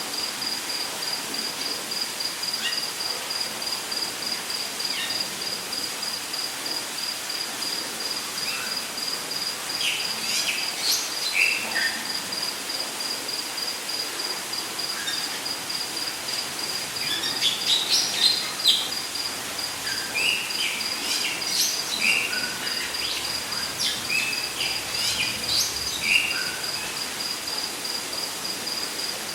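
Rainforest ambience: an insect trills steadily in rapid, even pulses, while birds give short chirps and whistles in scattered calls. The calls cluster about a third of the way in and are busiest through the second half, all over a steady background hiss.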